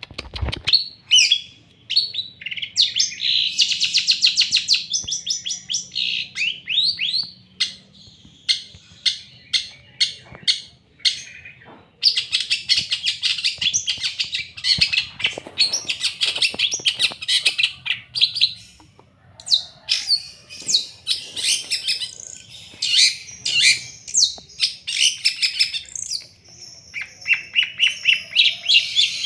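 A long-tailed shrike (cendet), a white-tailed bird, singing in full voice: a near-continuous, fast chatter of sharp chirps and rapid trills, with a brief pause about twelve seconds in.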